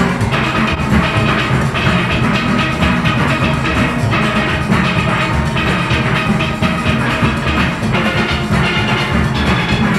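A full steel orchestra playing a fast calypso arrangement: many steelpans ringing together over bass pans, with drum-kit and percussion keeping a steady driving beat.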